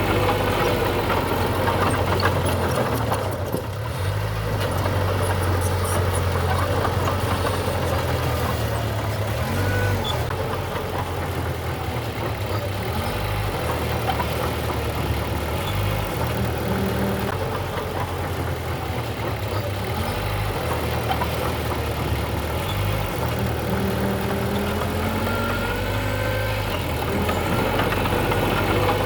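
Heavy construction machine's diesel engine running continuously, its low drone stepping up and down in pitch every few seconds as the throttle and load change.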